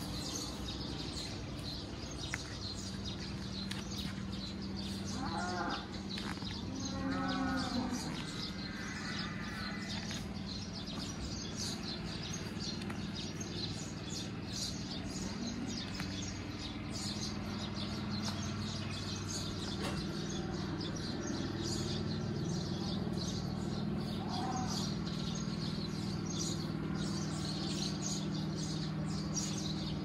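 Birds chirping steadily in the trees over a rural yard, with a steady low hum underneath. A few longer, lower-pitched animal-like calls come about five to ten seconds in and again around twenty-four seconds.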